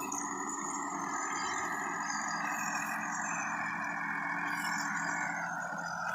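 Sonalika DI 50 RX tractor engine running steadily.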